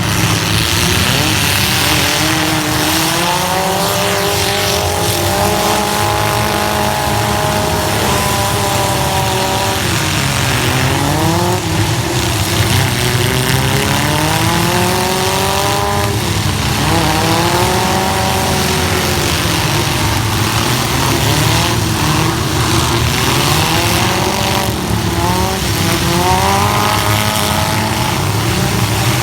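Compact pickup truck engines revving hard in a demolition derby heat, the pitch climbing and dropping again and again as the trucks accelerate, over a constant noisy din.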